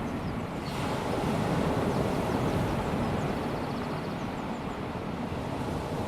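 Small waves of a calm sea washing onto a sandy beach, with a wave breaking and washing in more loudly about a second in.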